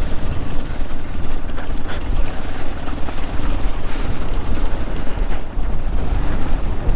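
Wind buffeting the microphone of a moving motorcycle, a loud dense steady roar with the bike's engine running underneath.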